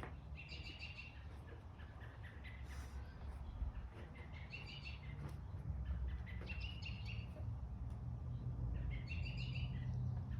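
A songbird singing four short phrases of quick chirping notes, one every two to three seconds, over a steady low rumble.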